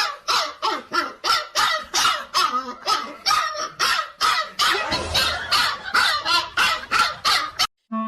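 A dog barking over and over, rapid harsh barks about three a second, stopping abruptly near the end.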